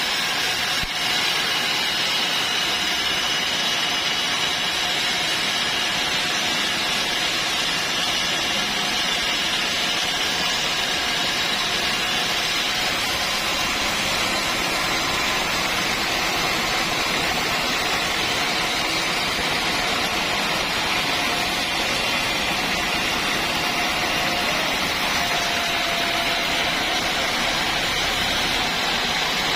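Sawmill running steadily: continuous, even machine noise with a faint high whine held throughout.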